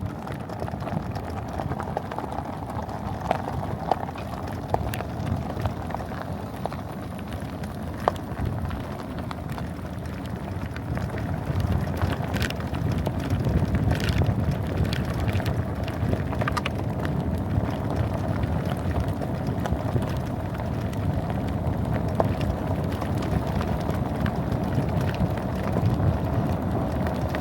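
Mini bike running steadily while being ridden, with wind rushing and crackling over the microphone.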